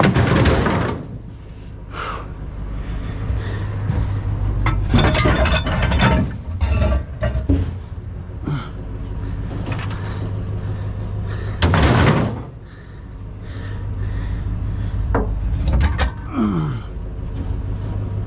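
Heavy scrap being handled and dropped: a series of bangs, knocks and rattling clatter, the loudest about twelve seconds in, over a steady low hum.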